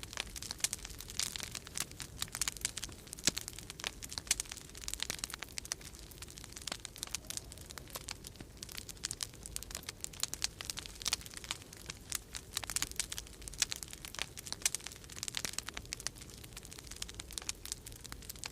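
Wood fire crackling in a fireplace, a dense run of irregular sharp pops and snaps, over a faint low steady rumble of winter storm wind.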